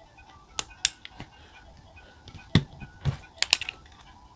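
Five or so sharp clicks and taps of pens and stationery being handled on a desk during handwriting, spread over a few seconds, with faint background music.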